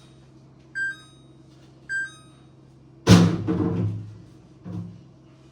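Refrigerator beeping twice, about a second apart, each beep a short tone dropping slightly in pitch, over a steady low hum; such beeping is the fridge's door-open alarm. About three seconds in comes a loud thud, and a softer one follows near the end.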